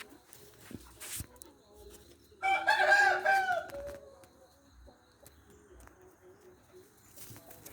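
A rooster crows once, a loud call of about a second and a half beginning between two and three seconds in, followed by faint, low, repeated calls.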